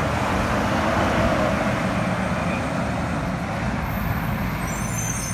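Garbage truck running, a steady low rumble under a broad rushing noise. High faint squeals come in about four seconds in.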